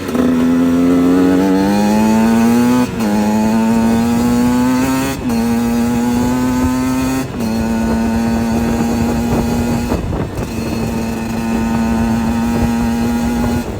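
KTM 125 SX two-stroke motocross bike accelerating hard: the engine note climbs and drops sharply at each of four upshifts in the first seven seconds or so, then holds a steady pitch, with a short dip about ten seconds in.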